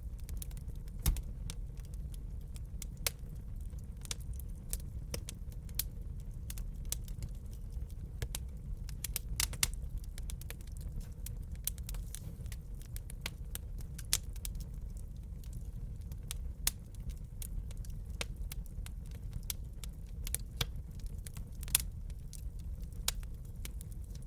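Wood fire burning in a fireplace: frequent, irregular sharp pops and snaps over a steady low rumble, with a louder pop about a second in.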